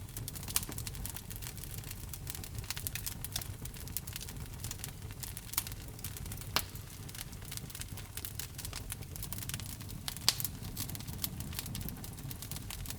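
Fire burning in a fireplace, crackling steadily over a low rumble, with a few louder pops.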